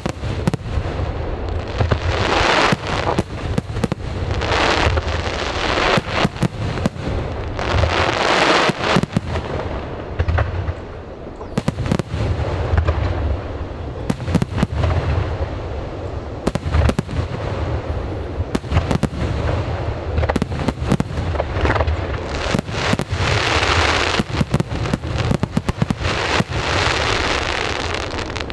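Aerial fireworks display going off continuously: rapid cracks and bangs from shells bursting one after another, with swells of crackling hiss every couple of seconds over a steady low rumble.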